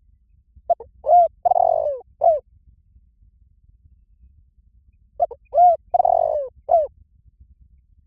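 Spotted dove cooing: two identical phrases of four coos, about four seconds apart, the third coo in each the longest.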